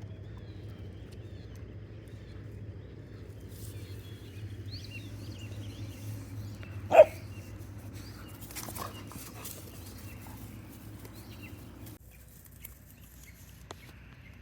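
A Bernese Mountain Dog puppy gives a single short, loud bark about seven seconds in, with a few softer sounds just after. Small birds chirp faintly over a steady low hum.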